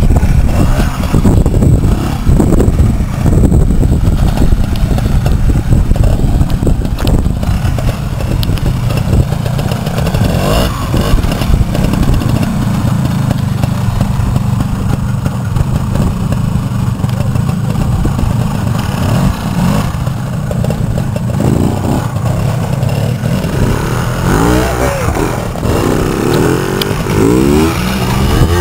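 Vintage trials motorcycle engine running at low revs, with the throttle worked as it picks its way over rocks; several rising revs near the end.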